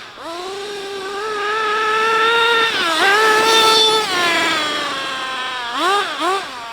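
Team C Stoke N nitro RC car's engine revving up and holding at high pitch through a long full-throttle run, with a brief dip about three seconds in. The pitch then falls away slowly, followed by two short throttle blips near the end.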